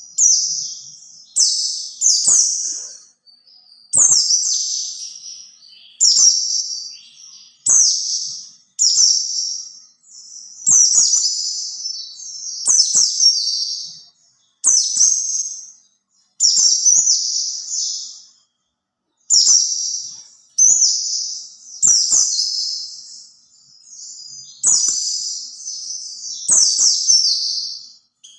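White-eye (pleci) singing a string of short, high-pitched chirping phrases, each about a second long and starting sharply, repeated every second or two. It is a call-lure song, played to draw in other white-eyes.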